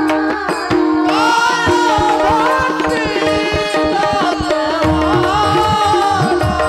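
Devotional kirtan music: tabla drumming under a steady held drone, with a melody that glides and wavers in pitch.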